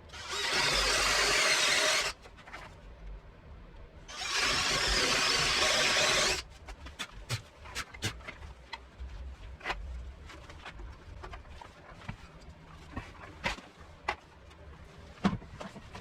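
A power tool running in two bursts of about two seconds each, the second building up over a moment, followed by scattered light clicks and knocks.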